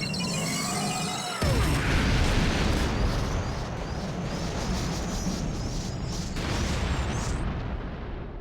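Cartoon space-battle sound effects: a falling whoosh, then a sudden loud explosion about a second and a half in, rumbling on for several seconds and slowly fading, with music underneath.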